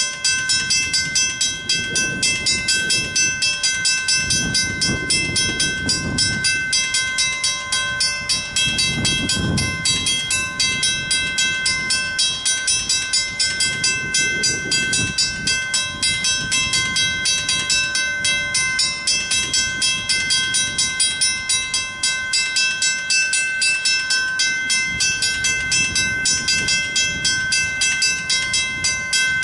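Railroad crossing bell ringing in quick, even strikes without a break: the crossing signal is activated with the gates down although no train is coming. A low rumble swells and fades a few times underneath.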